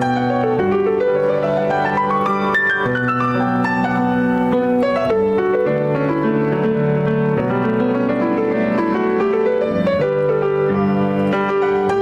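Instrumental piano music: slow held chords with a rising run of notes in the first few seconds and another flourish about ten seconds in.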